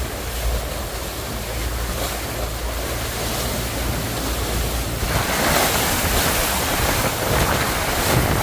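Strong wind buffeting the microphone over the rush of choppy river water, with a low rumble. The hiss grows louder about five seconds in.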